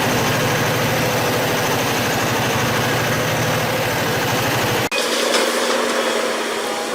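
Heavy machinery engine running steadily with a low, rhythmic pulse. About five seconds in it cuts off abruptly and a thinner machine noise with little low end takes over.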